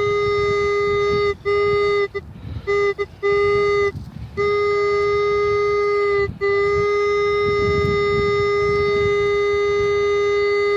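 Minelab X-Terra 705 metal detector sounding a loud, steady target tone through its speaker as the coil passes over a strong target reading a solid 16-18. The tone breaks off briefly a few times in the first four seconds, then holds unbroken for most of the rest. This is a 'screaming' signal, the sign of a strong, shallow metal target under the coil.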